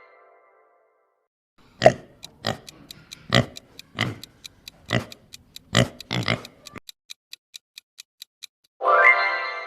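A series of about eight short animal grunts over a few seconds, over an even ticking like a countdown clock. A ringing chime sounds near the end.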